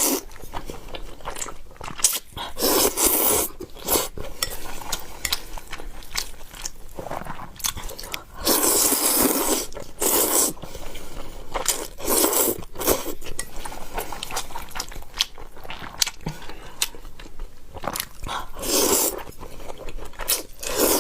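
Close-miked eating: a person biting and chewing food in irregular bursts, with clinks of utensils against dishes.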